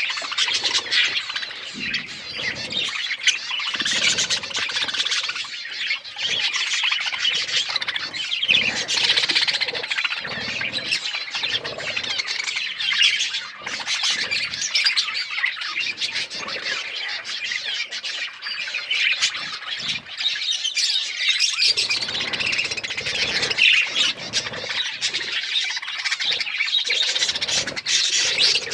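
A group of budgerigars chirping and chattering continuously, with many overlapping high-pitched calls and squawks.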